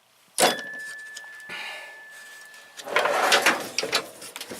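A metal tool box drawer clanks shut, leaving a ringing tone for about two seconds. Then a drawer slides open with the tools inside it rattling.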